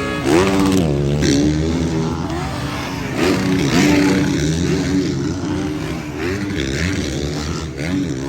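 Several motocross bikes racing, their engines revving up and down over one another as the riders work the throttle and shift.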